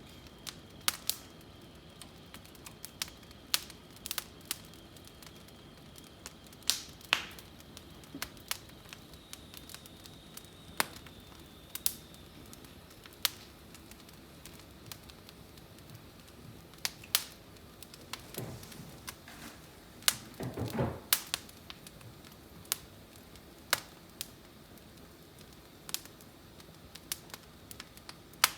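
Wood fire burning in a fireplace: irregular sharp crackles and pops from the burning wood over a low hiss, with a short lower, rumbling stretch about two-thirds of the way through.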